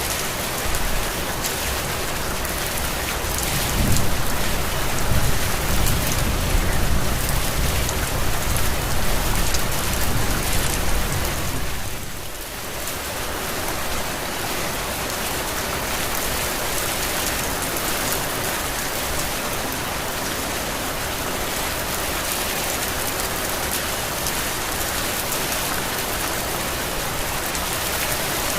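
Heavy tropical rain falling steadily, a dense even hiss. A deep rumble swells under it for several seconds early on, and the rain briefly thins about twelve seconds in.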